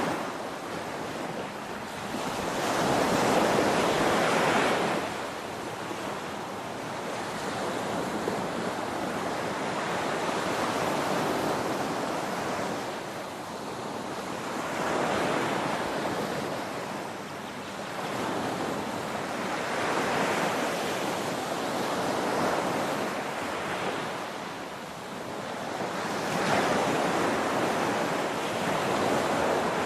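Ocean surf: waves breaking and washing in, a steady rushing that swells and eases every several seconds.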